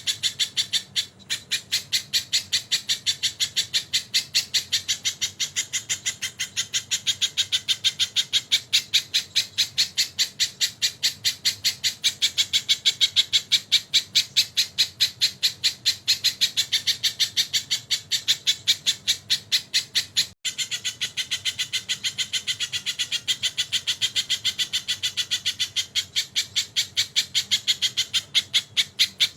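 Bird-song training recording (masteran) of a sogon bird with tengkek phrases: a fast, even run of sharp, high calls, about five a second, broken only by two very short gaps.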